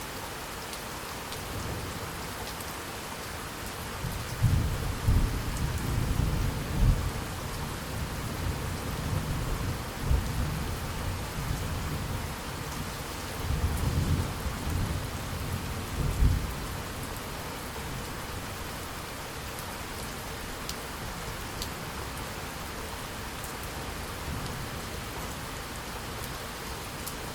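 Steady rain falling on a surface, with a long rolling rumble of thunder starting about four seconds in, swelling twice and dying away about seventeen seconds in.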